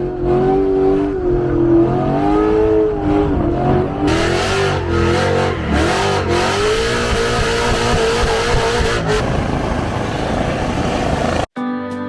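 A drift car's engine revving up and down repeatedly, with a harsh hiss joining about four seconds in, cut off suddenly near the end.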